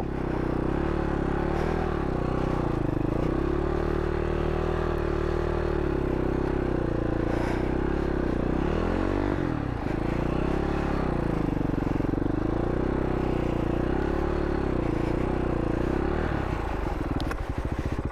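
Husaberg FS570 supermoto's single-cylinder four-stroke engine running under load while it is ridden through soft sand, the revs swinging up and down over and over as the rider works the throttle.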